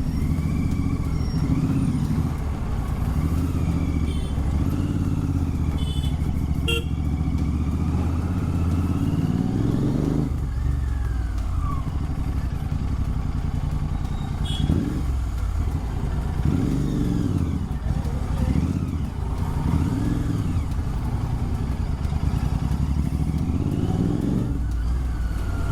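Royal Enfield Continental GT 650's parallel-twin engine through an aftermarket Red Rooster exhaust, running at low speed, its note rising and falling several times with the throttle.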